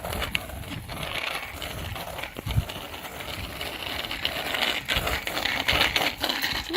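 Bicycles being ridden outdoors: scattered clicks and rattles from the bikes, with a few low thuds of wind or handling on the microphone.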